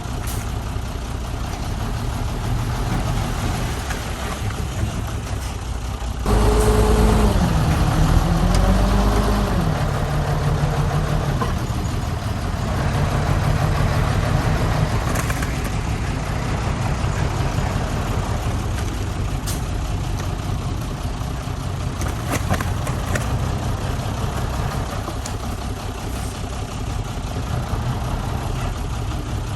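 Heavy diesel engine of construction machinery running steadily. About six seconds in it suddenly gets louder and revs, its pitch dipping and rising for a few seconds before it settles back to a steady run.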